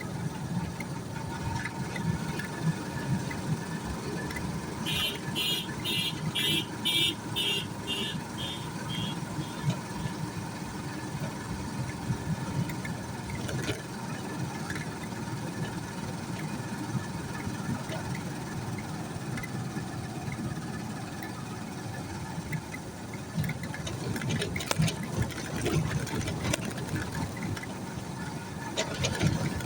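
Vehicle engine and road rumble heard while riding along, steady throughout. About five seconds in, a run of short high beeps repeats about twice a second and fades away.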